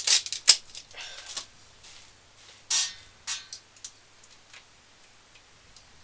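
A graphics card and its plastic packaging being handled: scattered sharp clicks and short rattling, crinkling bursts during the first few seconds.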